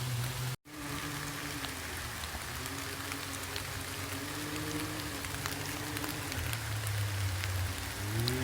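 Side-by-side UTV engine running at fairly low revs, its pitch wandering up and down and climbing near the end, under a steady hiss with scattered small ticks. The sound cuts out completely for an instant about half a second in.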